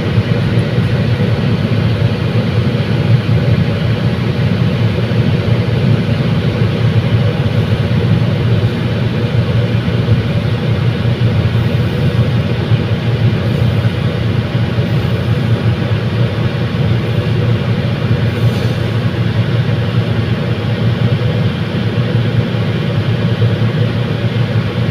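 Commuter train running with a steady low rumble.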